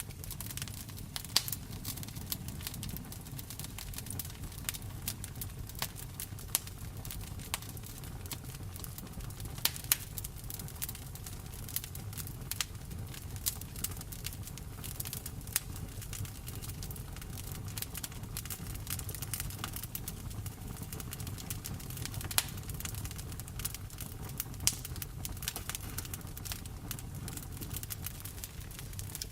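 Wood fire crackling in a fireplace, with frequent sharp pops, over a steady low rumble and the even patter of rain.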